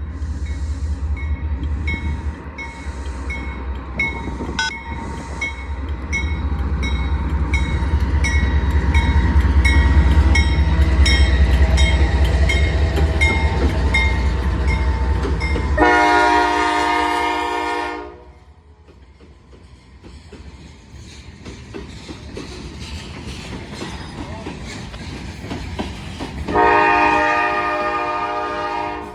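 Norfolk Southern freight train passing: diesel locomotive rumble with rhythmic clicking of wheels over rail joints, growing louder toward the middle. About sixteen seconds in, a locomotive air horn sounds a long blast of about two seconds that cuts off sharply, the rumble falls away, and near the end the horn sounds again.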